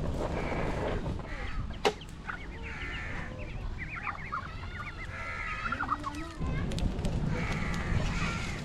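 Chickens clucking in a run of short, quick calls in the middle, with one sharp knock about two seconds in.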